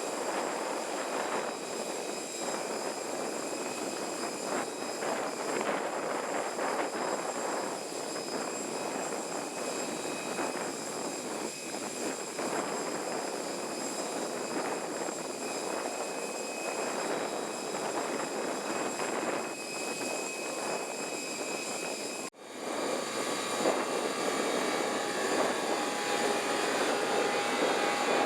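Steady jet aircraft noise on an airport apron: a rumble with a high, steady whine. The sound cuts off abruptly about 22 seconds in and resumes at once, a little louder and with a different mix.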